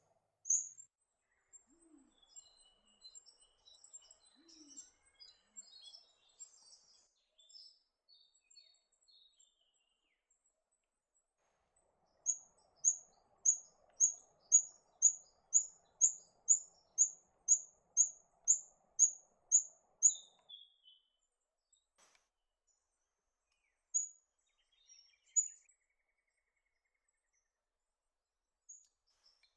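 Rufous fantail calling: faint high twittering, then a run of about fourteen short, sharp, very high notes at roughly two a second, followed by a few single notes.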